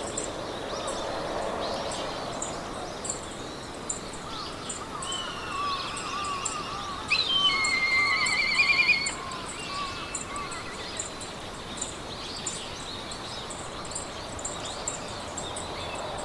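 Meadow ambience: several birds singing over a soft, steady hiss, with one louder trilling song about seven to nine seconds in. A thin, high chirp repeats throughout in the background.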